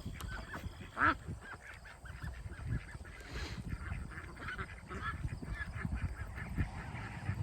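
A flock of domestic ducks, Pekins and Khaki Campbells, quacking and calling in short repeated calls, with one louder call about a second in. This is a newly mixed flock squabbling as it sorts out its pecking order.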